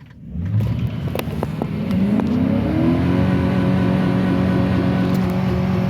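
Car engine revving hard under wheelspin on wet pavement: it rises in pitch for about two and a half seconds, then holds steady at high revs. With the open rear differential, only one wheel spins.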